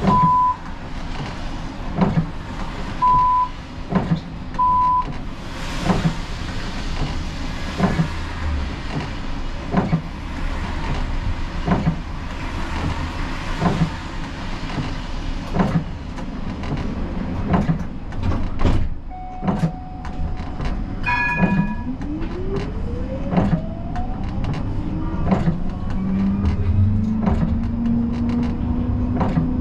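Siemens Combino tram under way heard from the driver's cab: a steady running rumble with a sharp click about every two seconds, and three short beeps near the start. About three quarters through comes a short chime, then the whine of the electric traction motors rises steeply as the tram accelerates and carries on climbing slowly.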